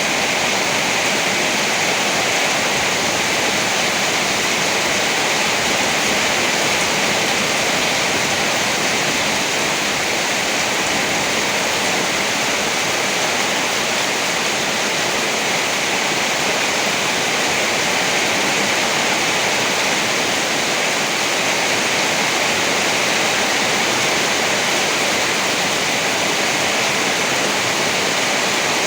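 Steady rain: an even, unbroken hiss with no thunder or gusts standing out.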